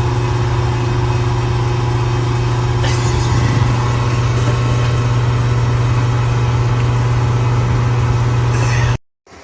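A loud, steady machine hum with a strong low drone, like a running motor or engine, which stops abruptly near the end.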